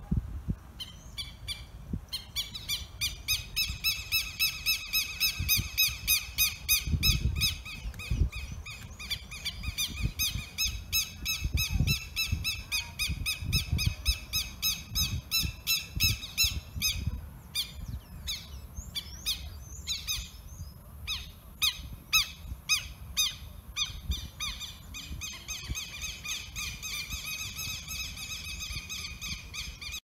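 A bird singing a long run of rapid, evenly repeated notes. The run breaks into looser, separate calls partway through, then resumes. Low wind rumble on the microphone comes and goes beneath it.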